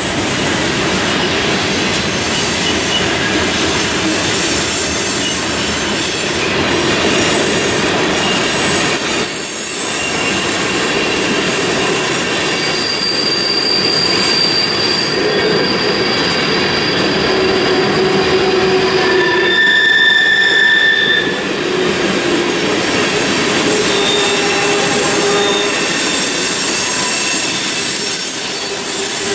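Freight train cars rolling past close by: centerbeam lumber flatcars and then tank cars. The wheels make a steady rumble on the rail, with high-pitched wheel squeal that comes and goes and is loudest about twenty seconds in.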